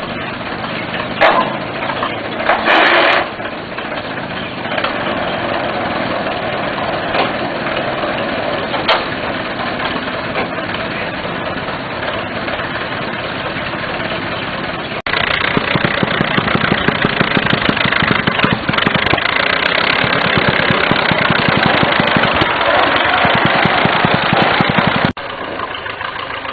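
Fordson engine of a Malcolm Moore four-wheel rail tractor running, with a short louder burst about three seconds in. About halfway it abruptly turns louder with a fast, even pulsing, then drops back abruptly near the end.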